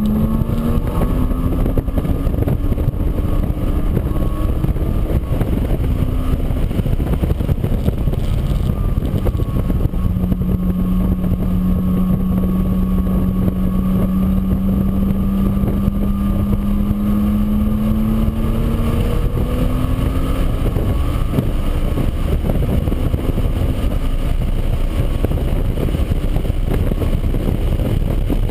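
An engine running under strong wind noise. Its pitch rises and falls over the first twenty seconds or so, then it drops under the steady rush of wind.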